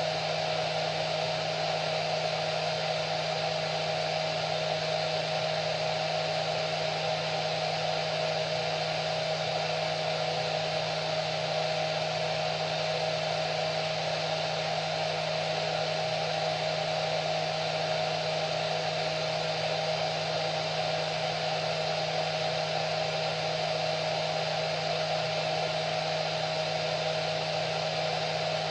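Hair dryer running steadily: a constant rush of blown air with a steady motor whine and low hum, unchanging throughout.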